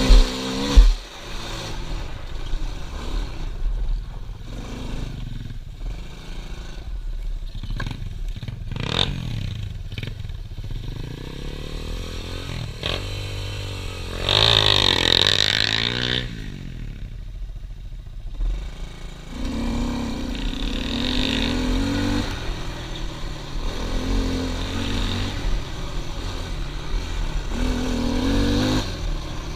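Pit bike's small engine revving up and down as it is ridden, with two sharp knocks within the first second.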